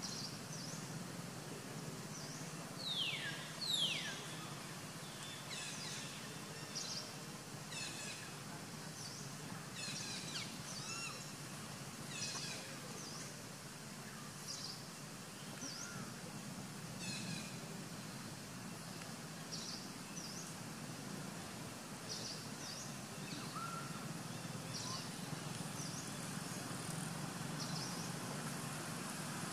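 Birds calling with short high chirps every second or so, and two loud falling whistled calls about three to four seconds in, over a steady low hum.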